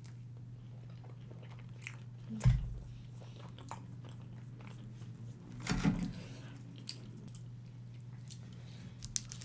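Close-miked eating: bites and chewing of pizza, soft and scattered, with a sharp thump about two and a half seconds in and a louder cluster of mouth sounds around six seconds. A steady low hum runs underneath.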